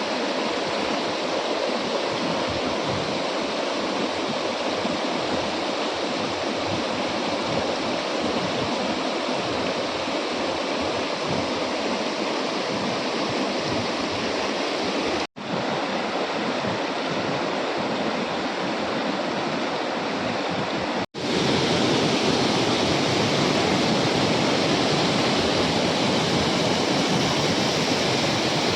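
Waterfall: the steady rush of water pouring down the 16 m falls. It breaks off twice for an instant, where the video is cut, and is a little louder after the second break.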